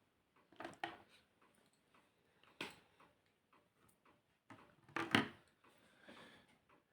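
A colour pen writing on paper: a few short scratchy strokes and light clicks, loudest as a pair of strokes about five seconds in.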